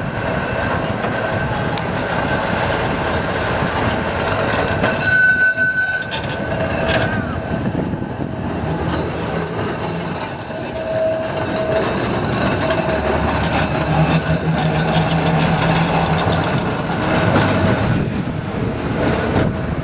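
Blackpool heritage tram running on its rails, steel wheels squealing. A high-pitched squeal holds for about ten seconds through the middle, over the steady rumble of the running gear.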